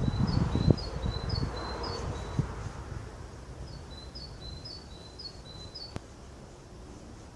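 A small bird chirping, a short two-note call repeated over and over, with a few low thumps in the first second.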